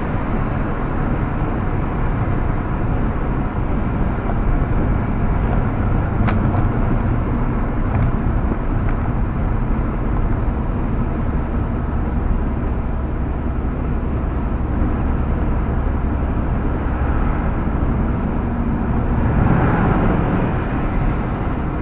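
Steady road and engine noise heard inside a car cruising at highway speed, with a deep low rumble.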